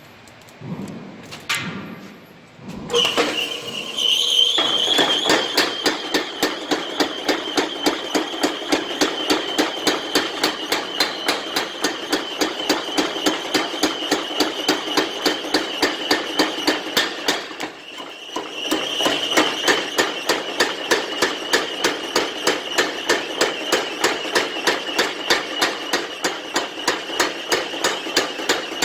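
Hammer blows on a steel damascus billet in a quick, even rhythm of about three strikes a second, over a steady high whine. The hammering starts a few seconds in, pauses briefly about two-thirds of the way through, then carries on.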